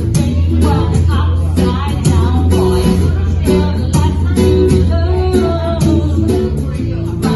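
Live band playing a pop song: a sung vocal over guitar and bass, with a steady beat.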